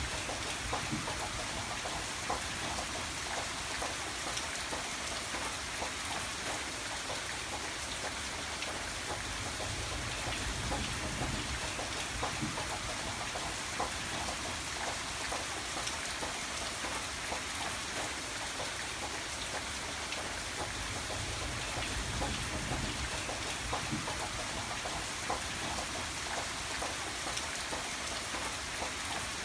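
Steady rain falling and pattering on a surface, with many small drop ticks over a low rumble that swells now and then.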